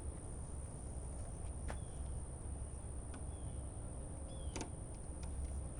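Quiet outdoor background with a steady low rumble, broken by two sharp clicks, one about a second and a half in and one about four and a half seconds in, and a few brief high chirps.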